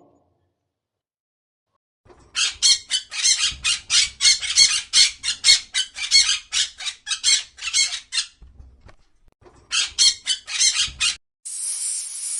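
A bird squawking in a rapid series of harsh, high calls, about four or five a second, with a brief pause and a second short run. A steady high hiss starts near the end.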